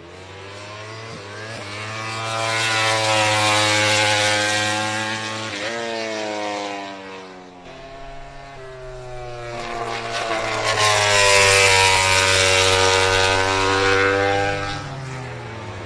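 MotoGP racing motorcycles at full throttle passing on track, twice: each engine note swells to a loud peak and then drops away, the first about four seconds in and the second about eleven to twelve seconds in.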